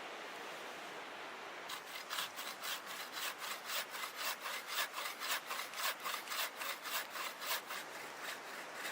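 Hand saw cutting through wood in quick, even back-and-forth strokes, about three a second, starting about two seconds in and stopping just before the end.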